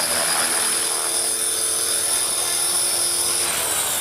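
Align T-Rex 450 electric RC helicopter's motor and rotor whining steadily as it settles to land. About three and a half seconds in the whine starts falling in pitch as the rotor spools down.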